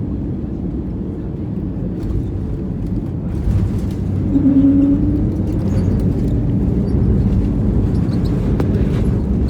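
Cabin noise inside an Airbus A320neo: a steady low rumble of engines and airflow that grows louder and rougher about three and a half seconds in, with a brief hum and a few light rattles.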